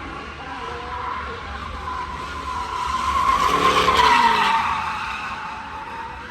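A car at speed with its tyres squealing in a long, steady screech. It grows louder to a peak about four seconds in, then fades as it passes, the engine note dropping in pitch.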